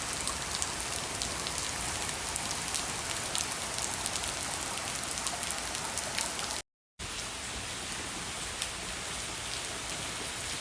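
Heavy rain falling steadily, with many individual drops striking as sharp ticks. The sound cuts out completely for a moment about two-thirds of the way through.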